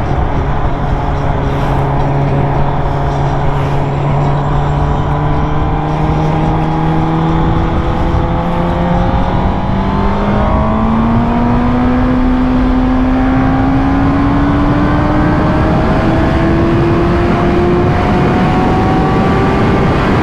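Motorcycle engine running at a steady pitch, then rising slowly and evenly through the second half as the bike gains speed, with wind rushing over the microphone.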